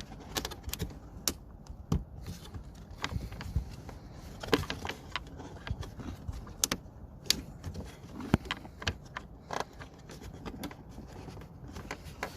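Irregular small clicks, taps and rattles of hand-handled parts as the outside temperature sensor's wiring connector is worked free of its clip in the lower grille.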